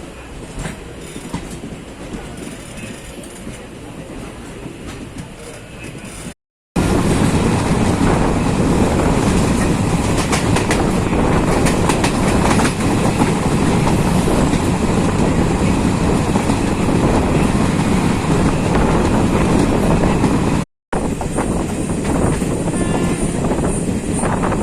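Running noise of a moving Jan Shatabdi Express passenger train: steady rumble of wheels on rail with clickety-clack. It cuts out twice; after the first break, about six seconds in, it comes back much louder.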